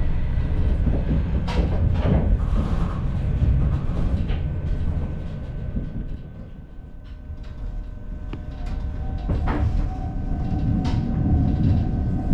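Diesel railcar heard from inside while running: a steady low rumble with sharp clicks of the wheels over rail joints, easing off about halfway through and then picking up again.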